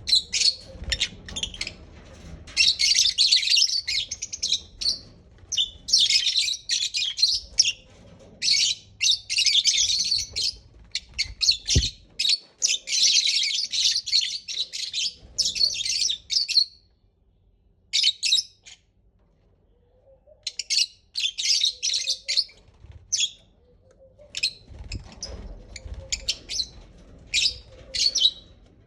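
Lovebirds chattering and chirping in rapid high-pitched bursts lasting a few seconds each, with a short quiet spell a little past the middle.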